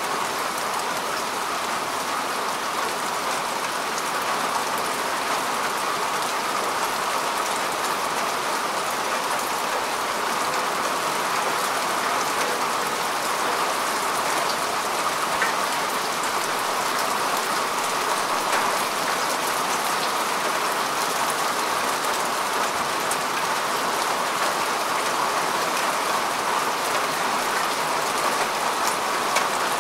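Steady rain falling on grass and earth, an even hiss with scattered drop patter.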